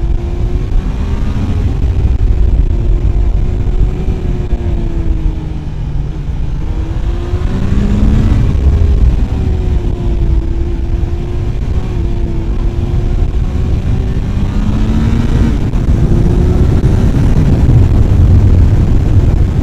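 Triumph Sprint ST 955i's three-cylinder engine running on the move, with heavy wind rush on the microphone. The engine note sags about six seconds in and climbs again about two seconds later as the bike eases off and pulls away again.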